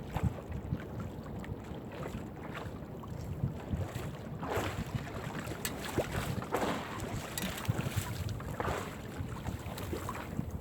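Wind buffeting the microphone on a small fishing boat during crab-net hauling. From about halfway on, water splashes roughly every two seconds.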